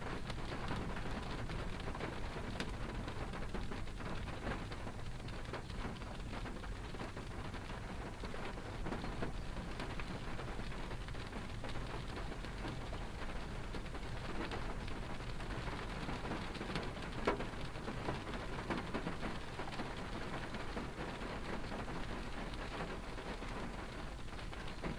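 Cabin sound of a moving car: a steady low road and engine rumble with a dense crackling patter over it, and one sharper knock about two-thirds of the way through.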